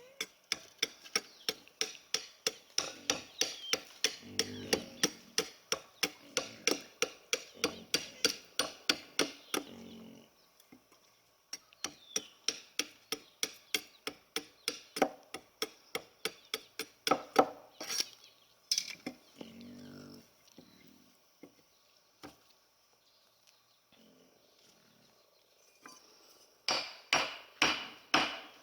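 Rapid, even chopping strikes on wood, about three to four a second, in runs of several seconds broken by short pauses.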